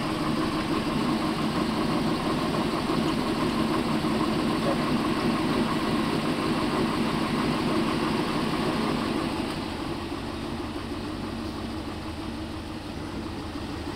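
Range Rover Classic's carburetted Rover V8 idling steadily on choke just after a cold start, running rich while the choke is being set. It gets a little quieter after about ten seconds.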